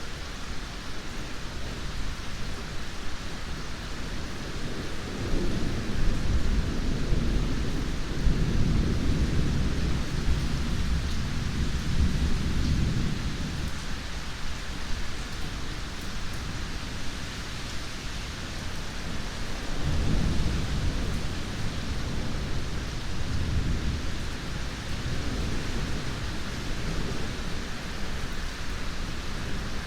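Steady rain hiss with low rolling thunder. The thunder swells into a long rumble about a sixth of the way in, then swells again about two-thirds of the way through.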